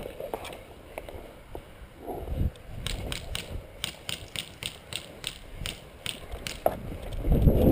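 A rapid, even run of sharp mechanical clicks, about four a second, lasting a few seconds from about three seconds in. Near the end there is a loud low rumble, like handling or wind on the microphone.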